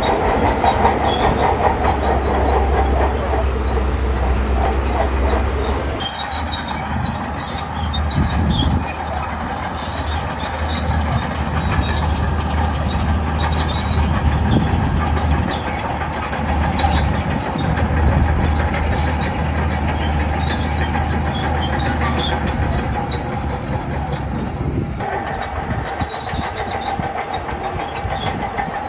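Shantui crawler bulldozer working: its diesel engine running steadily under load while the steel tracks clank and squeak. The sound shifts abruptly about six seconds in and again near the end.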